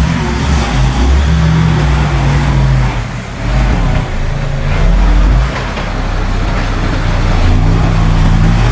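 Heavy construction machine's diesel engine working under load, its pitch rising and falling as it revs.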